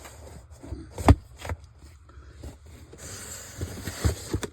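Comic books and cardboard boxes being handled: several thumps and knocks, the loudest about a second in and a few more near the end, with scraping and rustling in between.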